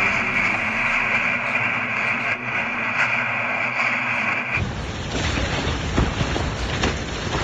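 Storm wind with rain, a loud steady hiss. About four and a half seconds in it changes abruptly to gusty wind buffeting the microphone with a low rumble.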